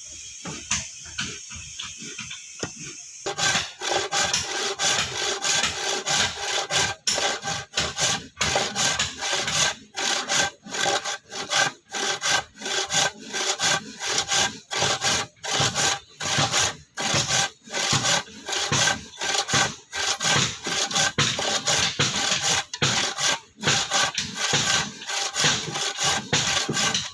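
Hand saw cutting through wood in steady back-and-forth strokes, about two a second, starting a few seconds in.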